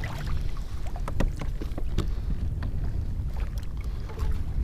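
Wind buffeting the microphone on a kayak, a steady low rumble, with a few light clicks and taps scattered through it.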